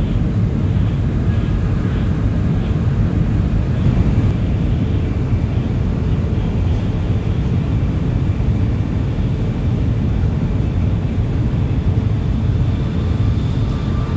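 Steady low rumble of the Whoosh high-speed train running, heard from inside the passenger cabin.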